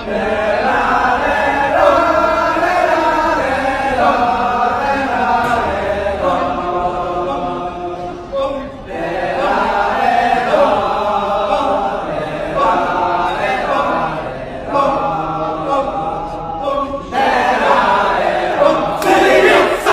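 Kecak chorus: a group of voices chanting together in long held notes that shift in pitch, with brief breaks. About seventeen seconds in it turns into a denser, louder group shout.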